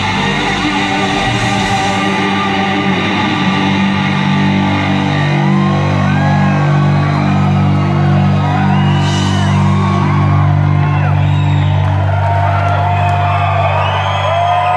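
Live rock band playing loudly through a concert PA, holding long sustained notes on electric guitars. From about five seconds in, audience members whoop over the music.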